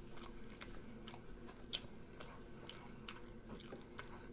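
Faint chewing with scattered soft mouth clicks, one sharper click about a second and a half in, over a low steady room hum.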